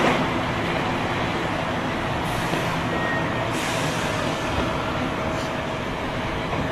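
Tobu 9000 series chopper-controlled electric train running in the subway, heard from inside the car: steady running noise with a faint thin tone, part of this car's unusual motor and chopper sound. Two short hissing surges come about two and three and a half seconds in.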